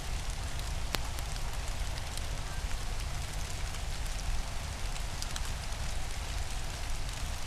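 Steady rain falling in woodland at dusk: an even hiss with many separate drops ticking through it, over a low rumble.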